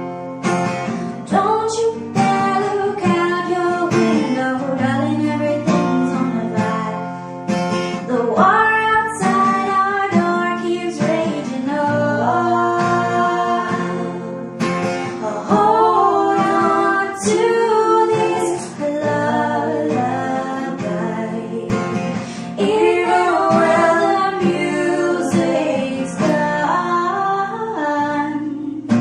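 A woman singing a slow song to acoustic guitar accompaniment.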